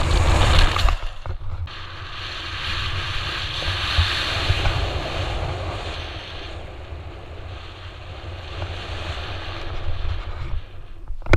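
Wind buffeting and rushing over a GoPro's microphone during a BASE jump. It is loudest in the first second, holds as a broad rushing hiss for a few seconds, then eases off after about six seconds.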